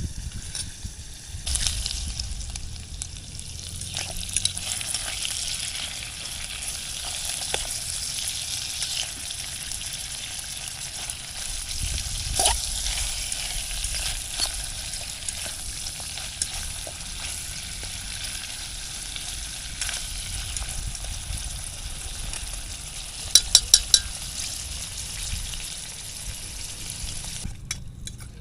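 Food frying and sizzling in a pan, with stirring and scraping. Near the end comes a quick run of four sharp metallic taps, and the sizzle then cuts off shortly before the end.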